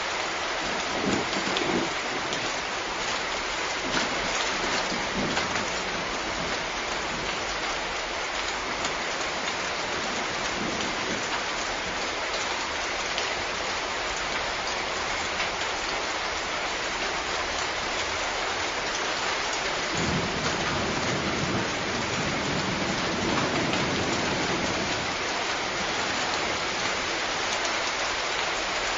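Steady rain falling, with low rumbles of thunder about a second in and again for several seconds from about twenty seconds in.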